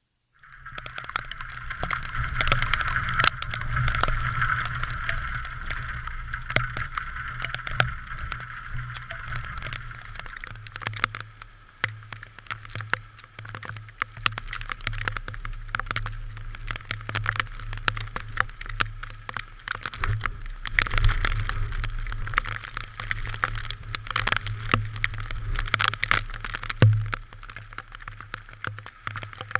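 Typhoon wind and rain on a GoPro: a constant rumble of wind buffeting the microphone, with many raindrops tapping on the camera. It starts suddenly just after a moment of silence and swells and eases in gusts.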